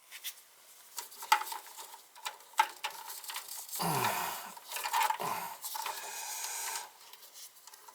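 Hands working the furnace's low-voltage control wiring: scattered small clicks, taps and rubbing of wires and tools, with two short downward-sliding sounds near the middle.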